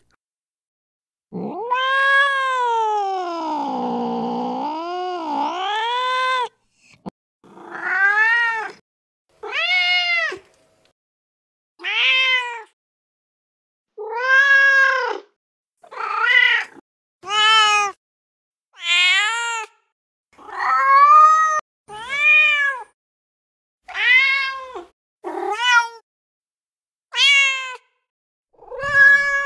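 Recorded domestic cat calls from a cat-sounds app, played one after another: first a long, wavering yowl of about five seconds, then a string of short meows from different cats, one every second or two, with silence between them.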